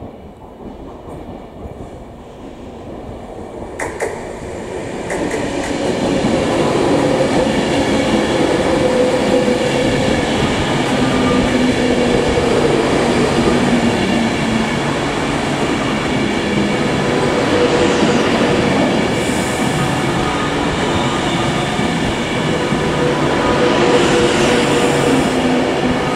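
Electric train rail noise. A container freight train rolls past faintly at first, with a single knock about 4 s in. Then a Class 390 Pendolino electric multiple unit comes alongside and grows loud, with a steady electric whine over rumbling wheel and rail noise as it slows into the station.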